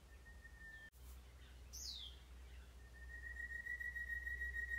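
Faint bird calls: a short steady whistle, a quick falling whistle, then a long, slightly wavering whistle held for about three seconds, over a steady low rumble.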